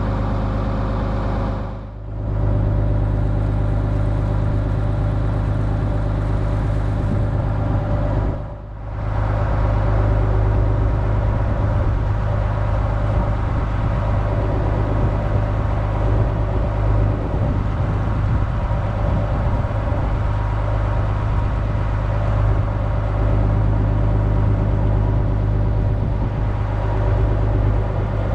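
A Dutch barge's engine running steadily while under way, a low hum with a steady pitch. The sound dips briefly twice, about two and nine seconds in.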